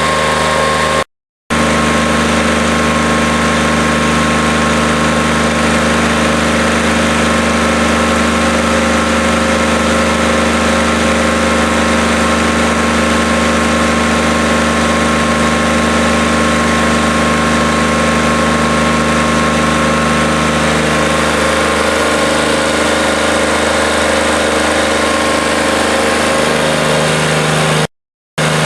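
QC385 diesel engine of a stationary diesel drive unit running steadily under no load. The sound drops out completely for a moment twice, about a second in and near the end.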